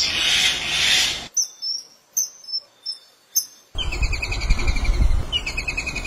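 Bird recordings spliced one after another: a loud noisy stretch from a myna clip, then a few short high chirps, then from about four seconds in a white-throated kingfisher's rapid pulsing trill over a low rumble of wind.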